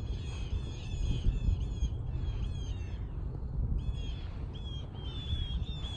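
Birds calling in quick runs of short, repeated high notes, with a brief pause about three seconds in, over a steady low rumble.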